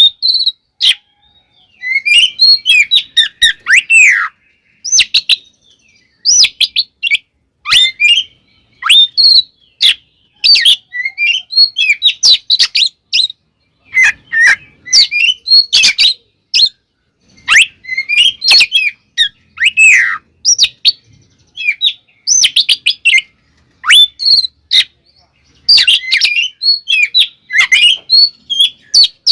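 Oriental magpie-robin (kacer) singing its combative fighting song: loud phrases of rapid whistles, sweeping notes and harsh chatter, each lasting a second or two and separated by short pauses.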